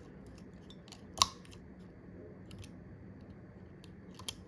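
Light clicks and taps of small parts and tools against an iPhone's frame, with a sharper click about a second in and another near the end.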